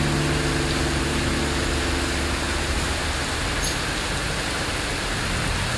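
Heavy rain pouring steadily onto a paved street, an even hiss. Background music under it fades out over the first two or three seconds.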